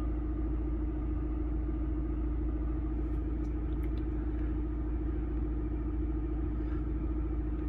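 Audi A6 C7's TDI diesel engine idling steadily, back at normal idle after a forced DPF regeneration has finished.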